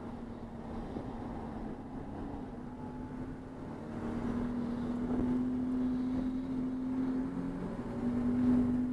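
Race car engine running under load at race pace, a steady drone whose pitch climbs slowly and gets louder about four seconds in, with a brief dip in pitch near the end.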